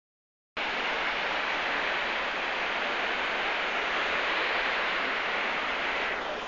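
Steady rush of a large waterfall, falling water as a constant even noise that starts suddenly about half a second in and eases slightly near the end.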